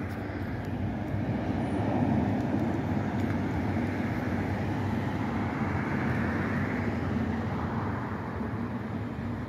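A motor vehicle's engine running with a steady low hum. It grows a little louder about two seconds in and eases off near the end.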